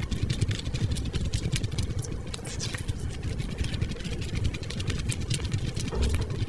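Close-miked chewing of fried eggs: a rapid run of wet mouth clicks and smacks over a low, steady rumble.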